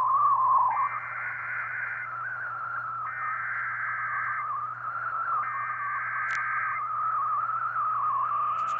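Three bursts of buzzy, warbling data tones, each a little over a second long with about a second between them. This is the coded header (SAME) that opens a National Weather Service / Emergency Alert System warning broadcast. A continuous wavering tone and a low hum run underneath.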